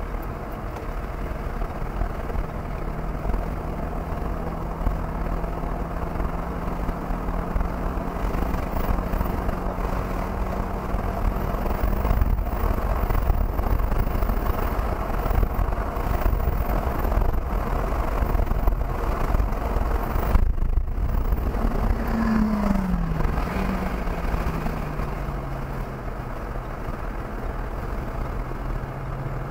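Jaguar XE's supercharged 3.0-litre V6 heard from inside the cabin at speed over tyre and wind noise. The engine note holds steady for most of the run, drops out briefly about twenty seconds in, then falls in pitch as the car slows for a corner and settles at a lower, steady note.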